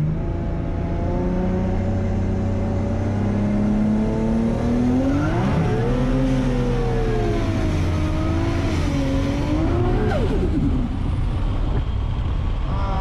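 Turbocharged 2JZ inline-six of a 1100 hp Toyota Supra, heard from inside the cabin, revving during a skid session: the revs climb steadily, swing up and down several times, fall sharply a little after ten seconds, then climb again at the end, over a steady rush of tyre and road noise.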